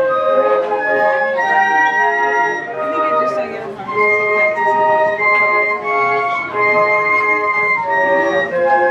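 A flute ensemble playing live, several flutes holding sustained notes in harmony as the melody moves from note to note.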